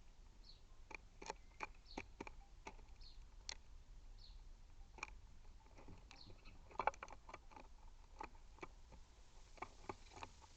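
Small garden bird pecking at seed on a feeder right by the microphone: irregular sharp clicks and taps, with a quick cluster of them about seven seconds in, and a few faint high chirps.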